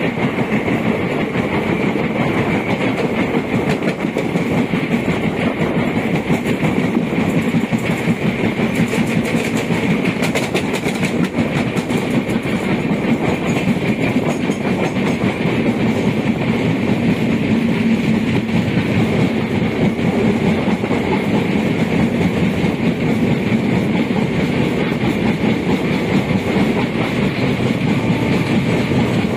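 Two passenger trains running side by side at speed, heard from on board the ICF train: a steady rumble of steel wheels on rail with clickety-clack from the rail joints as the LHB coaches on the next track slide past.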